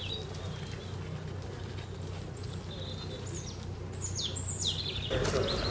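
Small birds chirping in short, high, falling notes, several in a cluster through the middle, over a steady low hum. Near the end a louder, rougher rush of noise sets in.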